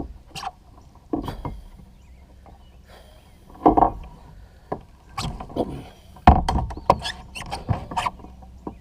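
Irregular knocks, bumps and scrapes on a kayak's hull, a dozen or so of them, the heaviest about four seconds in and again about six seconds in.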